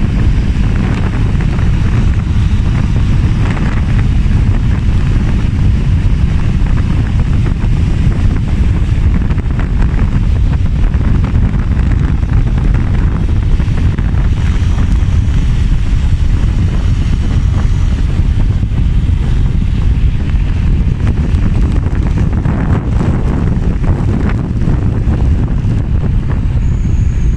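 Steady, loud wind rushing over the microphone on a moving motorbike, with a deep rumble from the ride underneath.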